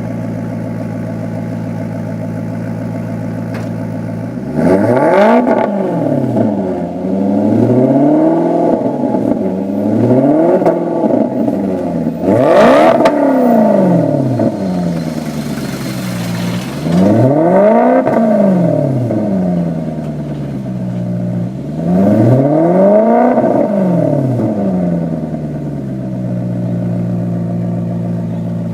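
Maserati GranTurismo's V8 through a sport exhaust, idling steadily, then blipped six times from idle, each rev climbing and falling back. A sharp crack comes with the fourth rev. It settles back to a steady idle near the end.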